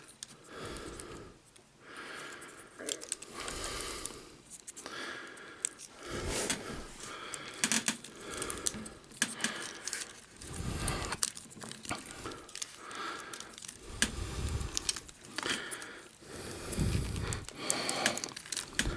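Plastic Transformers action figure being handled and transformed: small clicks, scrapes and snaps of joints and parts being moved into place, with a few soft low thumps.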